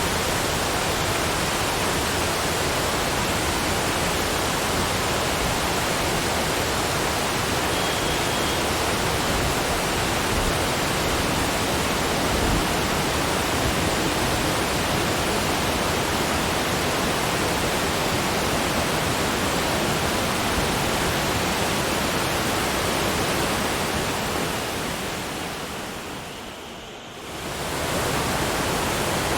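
Steady, even rushing of water, which fades down briefly near the end and comes back.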